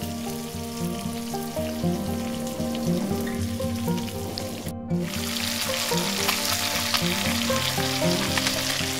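Fish pieces frying in oil in a clay pan, sizzling and crackling, louder after a brief dropout just before five seconds in. Background music with a simple stepping melody plays throughout.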